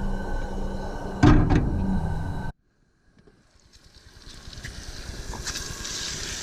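A knock over a steady hum, then, after a cut, pork belly frying in a pan on a camp stove: a hissing sizzle that fades in and holds steady.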